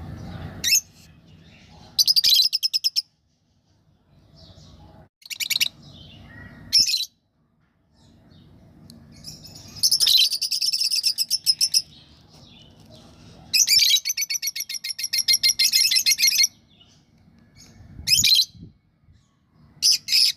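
Lovebirds calling in bursts of rapid, high-pitched chirping. The runs come every few seconds and last from a split second to about three seconds, the longest a little past the middle.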